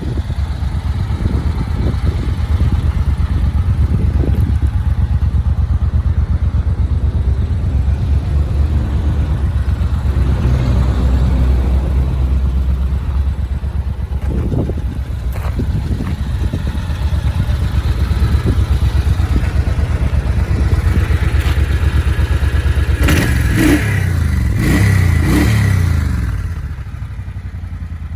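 2009 Suzuki Boulevard C90T's V-twin engine running through its stock exhaust. It idles with a steady low pulse, then is revved in several quick throttle blips near the end before settling back to idle.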